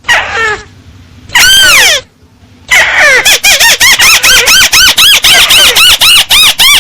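Paddy-field crake (tikusan sawah) calling loudly, played as a lure recording. One long falling note comes about a second in, then from about three seconds a fast, even run of short arched notes, about six a second.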